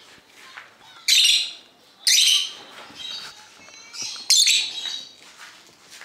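Nestling cage birds calling: three loud, harsh, high-pitched calls, about a second in, two seconds in and a little past four seconds, with fainter chirps between.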